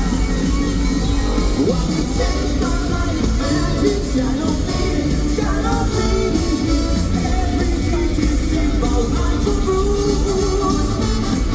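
Live funk band playing a song with lead vocals, heard through an audience member's phone.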